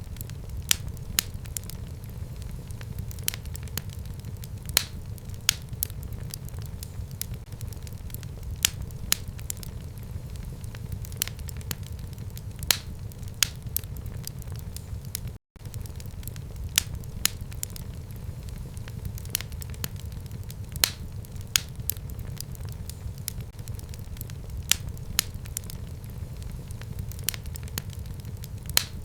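Fire burning in a home fireplace: a steady low rumble of flames with irregular sharp crackles and pops, a few every second. The sound cuts out for a split second about halfway through.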